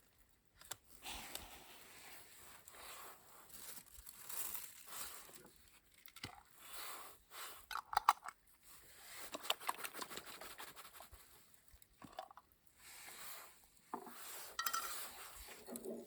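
Cutlery and cookware being handled, with irregular clinks, scrapes and short rustling noises; the loudest clink comes about eight seconds in.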